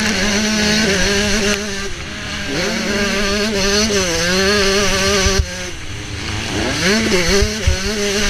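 Motocross bike engine heard from the rider's helmet, revving hard and changing pitch with the throttle. It drops away briefly about two seconds in and again about five and a half seconds in, then picks up again. There are a few sharp knocks near the end.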